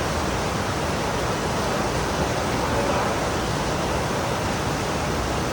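Heavy pouring rain: a steady, even hiss.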